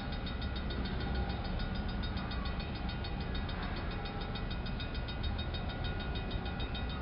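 BNSF autorack freight train rolling by with a steady low rumble. A fast, even ticking, about eight a second, runs over it.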